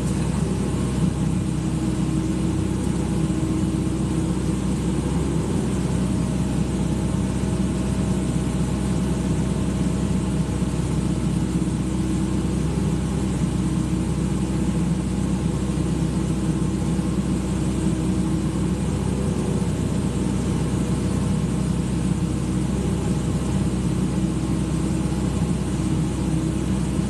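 Excavator's diesel engine running steadily at an even, unchanging pitch and level.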